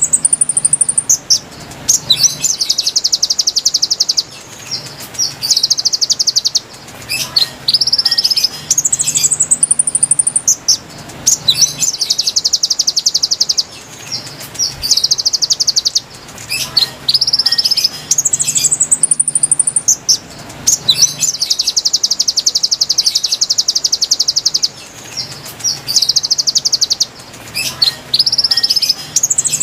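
Konin birdsong played as a lure recording: short, high, rising whistled notes, then a long rapid trill lasting a couple of seconds. The same phrase repeats about every nine seconds, as in a loop.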